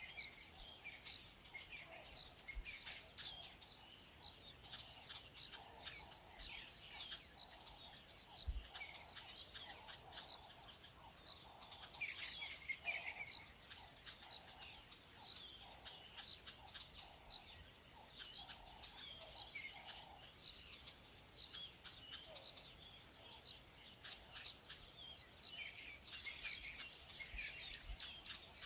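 Wild birds chirping and calling over and over in short notes, with insects trilling underneath: a natural daytime bush chorus.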